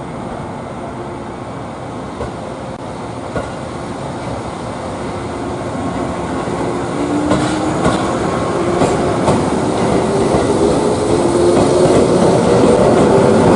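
Electric train running and picking up speed: a motor whine slowly rising in pitch from about halfway, over steady running noise that grows louder, with a few clicks of wheels over rail joints.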